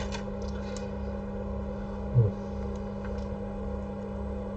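Steady electrical hum, with a few faint small clicks in the first second and a single short low thump about two seconds in.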